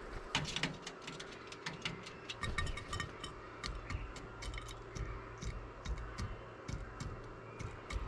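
Starlings pecking mealworms from a dish close to the microphone: rapid, irregular sharp taps of beaks on the dish, several a second, with soft low thumps among them.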